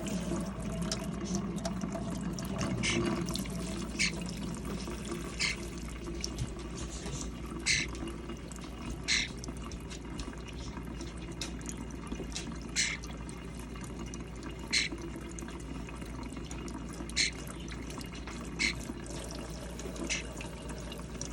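Water running steadily from a tap into a starling's bath, with a short sharp sound every second or two.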